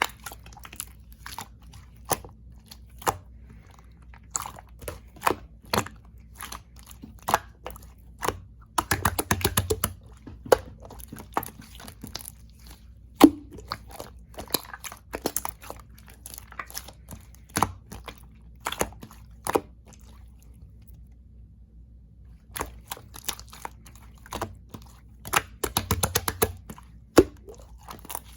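Slime being squished and pressed by hand, giving sharp clicking pops from trapped air. The pops come singly, with two quick runs of many pops, near a third of the way in and near the end.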